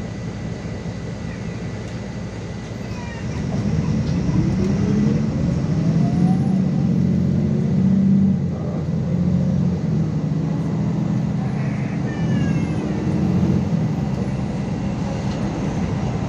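MAZ 216 articulated city bus's diesel engine running under way, pulling harder from about three seconds in as the bus accelerates, with a rising whine, then easing off slightly near the middle.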